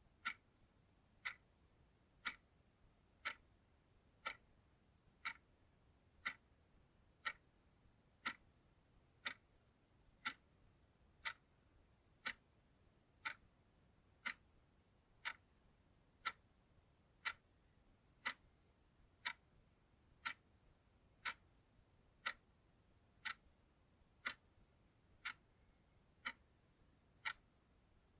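Clock ticking steadily, one short, crisp tick about every second, evenly spaced.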